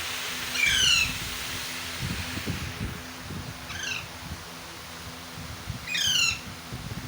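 Alexandrine parakeet chick squawking three times, each call falling in pitch, about two and a half seconds apart, the middle one fainter.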